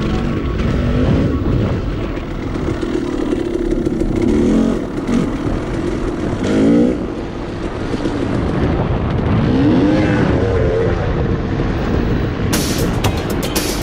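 Off-road vehicle engine running under load over rough ground, revving up and easing off several times as the rider works the throttle. Near the end come a quick run of sharp clicks.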